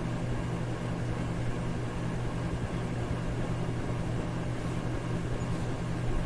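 Electric fan running steadily: an even rushing of air over a low motor hum, with no change in speed.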